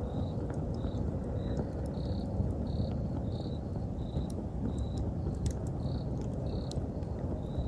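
Campfire burning with a steady low rush and scattered sharp crackling pops, while autumn insects chirp in short repeated notes, about two a second.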